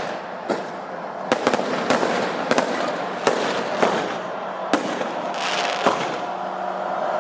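Fireworks display: a rapid, irregular series of a dozen or so sharp bangs over continuous crackling, with a brief hissing burst near the end.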